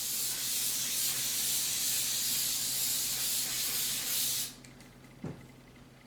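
Aerosol spray adhesive hissing out of the can in one long, steady spray that cuts off about four and a half seconds in, followed by a single light knock.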